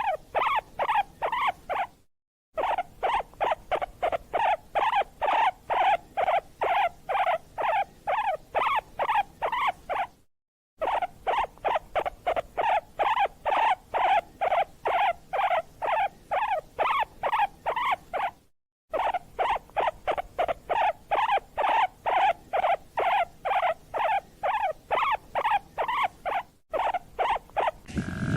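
An animal's short, squeaky calls repeated rapidly, about four a second, in runs broken by brief silent gaps about every eight seconds.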